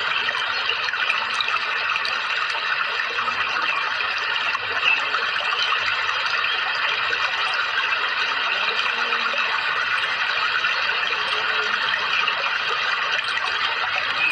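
Steady running, splashing water, an even rushing sound like a small stream or fountain, with a brief swell about five seconds in.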